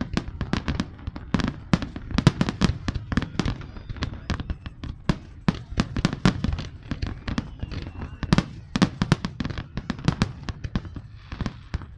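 Fireworks display: a continuous barrage of sharp bangs and cracks, several a second, with heavier booms among them, thinning out just after the end.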